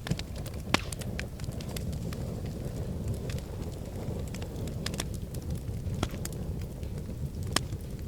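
Wood fire burning in a fireplace: a steady low rumble with frequent sharp crackles, snaps and pops, two louder pops about a second in and near the end.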